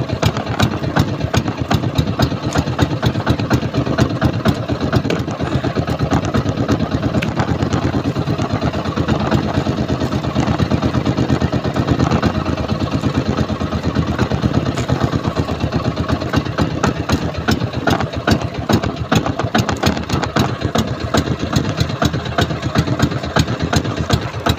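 A small boat's engine running steadily, with a rapid, even train of firing pulses.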